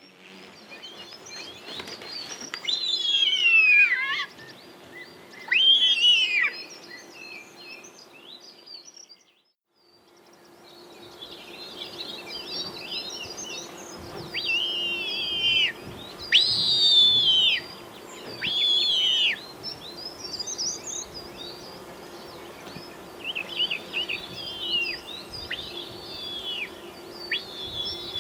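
Birds calling with many high, downward-slurring whistled notes, several overlapping at once. The sound breaks off briefly about nine seconds in and resumes, with a faint steady hum underneath.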